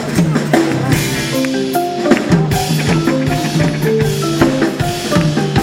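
Live rock and roll band playing an instrumental passage with a drum kit beat, a repeating bass line and short melodic notes, without vocals.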